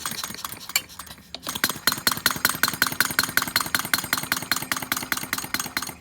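Small flame licker (vacuum) engine running, giving a fast, even clicking of about seven beats a second that settles in about a second and a half in.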